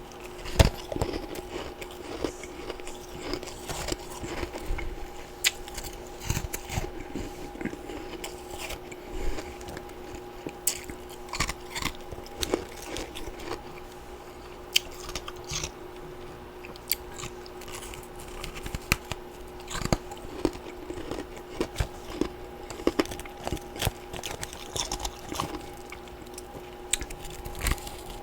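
Close-miked crunching and chewing of freezer frost and ice chunks: a run of irregular crisp crunches, over a steady hum.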